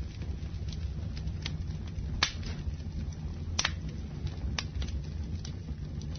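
Campfire burning with a steady low rumble and sharp wood crackles and pops every second or so, the loudest about two and three and a half seconds in.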